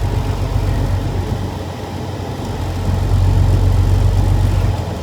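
2000 Freightliner FLD 112 semi truck's diesel engine running at low speed, heard from inside the cab as a steady low drone. The drone swells a little past halfway and eases near the end.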